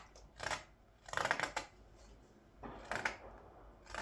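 Edged hand tool paring green wood on a ladle blank in three separate cutting strokes, the middle one the longest at about half a second.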